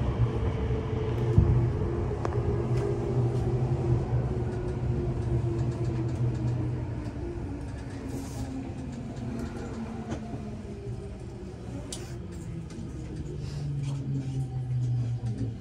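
Electric commuter train slowing into a station, heard from inside the car. A steady low hum runs under several motor tones that slowly fall in pitch as it brakes, with a few sharp clicks and knocks.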